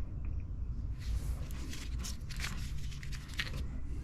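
Wiring harness being handled: several brief rustling, scratching strokes of wires and loom over a steady low hum.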